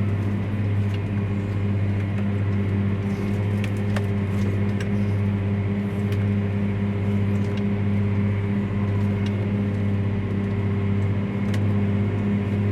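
Vehicle engine running steadily: a constant low drone with an even hum and a few faint ticks.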